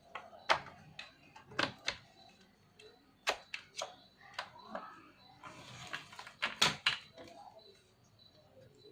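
Sharp plastic clicks and knocks as an Asus X45A laptop's parts are handled and pressed into place during reassembly, irregular and about a second apart, with a short rustle about six seconds in.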